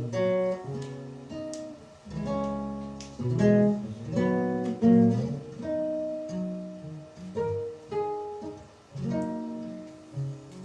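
Acoustic guitar playing the intro of a song, chords picked and strummed with each note ringing and dying away.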